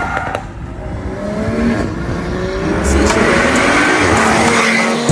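Car engine revving hard, its pitch climbing several times, with tyres squealing from about three seconds in.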